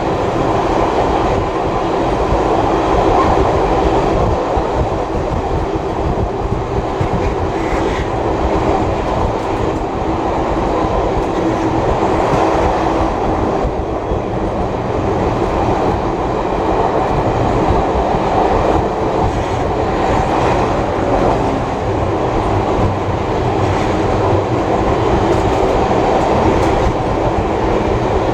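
Heritage passenger carriage running along the track at speed: steady noise of wheels on rails with occasional faint clicks.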